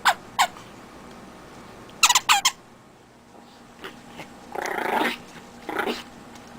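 Chihuahua puppy playing rough with a squeaky chew toy: a couple of short high squeaks at the start and a quick run of squeaks about two seconds in, then two rougher, noisier bursts like growling near the end.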